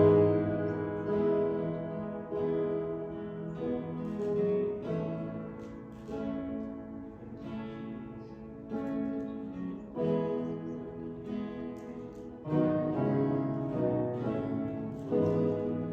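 Acoustic guitar strumming slow, sustained chords, about one strum every second or so, with no singing.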